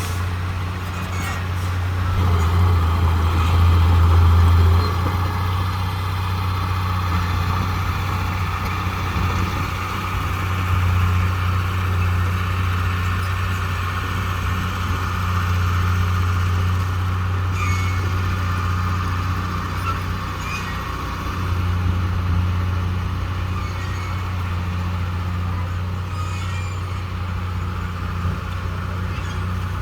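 Heavy construction machine's diesel engine running steadily with a low drone, swelling louder for a few seconds near the start.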